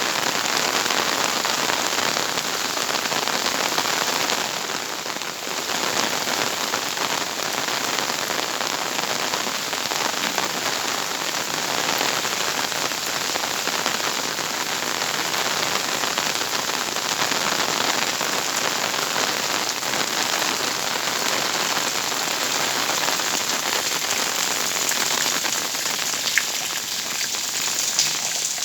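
Heavy tropical rain pouring down steadily, a dense hiss of countless drops striking surfaces.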